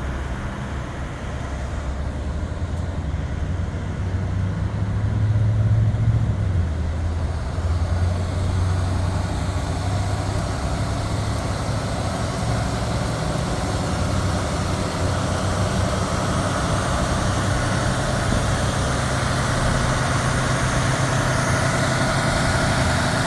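Fire truck's diesel engine idling steadily, briefly louder about five seconds in.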